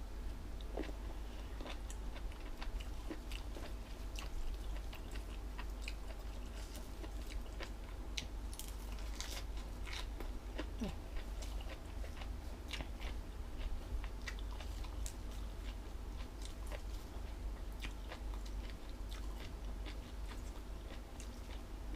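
A person chewing crunchy food close to the microphone, with irregular crisp crunches and wet mouth clicks.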